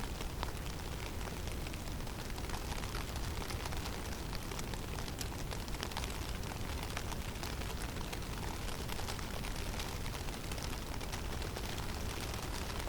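Heavy snowstorm in a conifer forest: a steady low rumble of wind under an even hiss, with a dense, fine patter of small ticks throughout from snow and ice striking surfaces.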